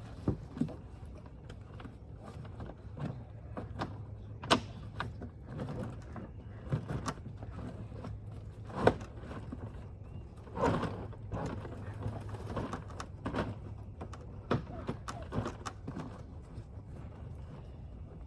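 Kayak fishing gear being handled and fitted onto a kayak: scattered knocks, clunks and clicks of plastic and metal parts, the loudest about four and a half, nine and ten and a half seconds in, over a steady low hum.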